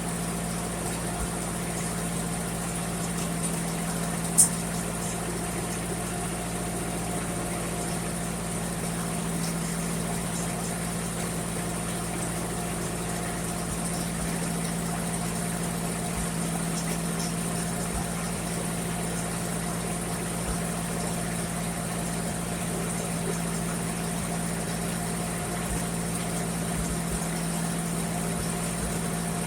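1958 Ford 851 tractor engine idling steadily at an even, unchanging speed, with a single sharp click about four seconds in.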